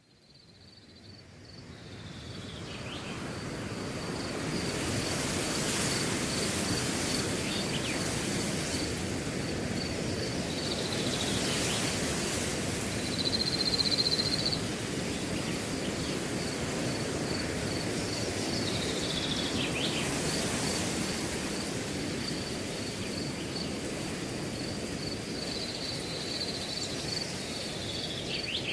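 Wind blowing through a grass field, a steady rushing that swells and eases, fading in over the first few seconds. A cricket chirps in rapid, even pulses throughout, with a few short falling calls about every eight seconds.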